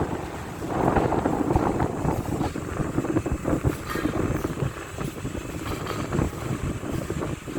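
Venti-Delta Premium 40 cm wall fan running, its airflow rushing and buffeting on the microphone in uneven gusts, easing off near the end.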